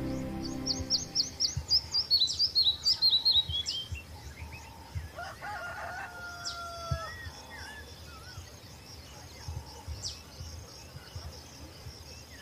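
Birdsong: a rapid run of high chirps, about four a second, stepping down in pitch over the first few seconds. About five seconds in, a rooster crows once, fainter, with scattered high bird calls after it.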